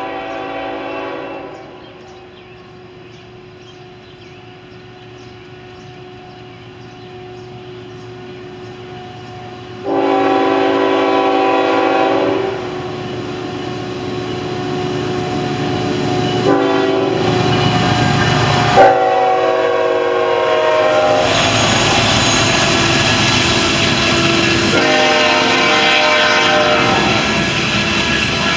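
Canadian National freight locomotive's multi-tone air horn sounding a string of long and short blasts as it approaches a grade crossing, over a rumble that grows louder. Toward the end the train passes close by, with the steady rumble and wheel clatter of covered hopper cars rolling over the rails.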